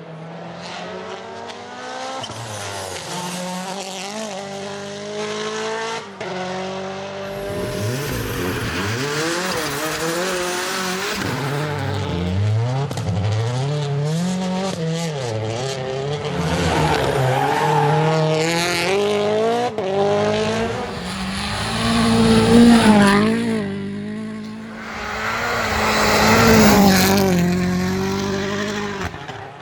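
Rally car engines revving hard, the pitch climbing and dropping repeatedly through gear changes and lifts, with tyre squeal and surface noise from sliding. The sound swells to its loudest twice in the second half.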